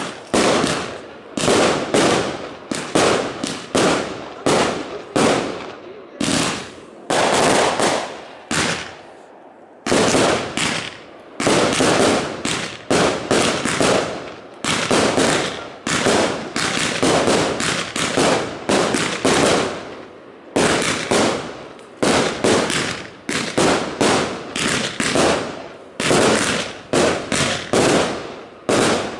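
Aerial fireworks bursting in a rapid series of sharp bangs, often several a second, each trailing off over a fraction of a second, with a brief lull about nine seconds in.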